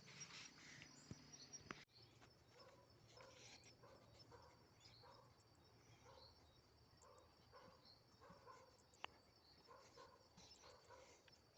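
Near silence: faint outdoor ambience of insects chirring, with soft short calls repeating every half second or so. A sharp click about two seconds in and another near nine seconds.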